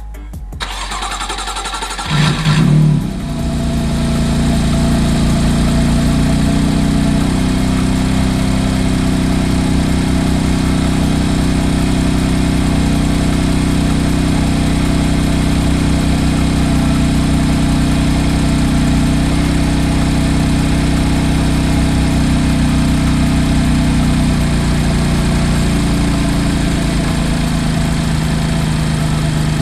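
BMW S55 twin-turbo inline-six engine starting: it catches about two seconds in with a brief loud flare, then settles into a steady idle.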